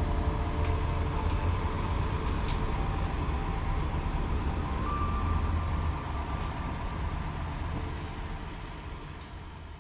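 Steady low rumble with a few faint steady tones, fading out over the last few seconds.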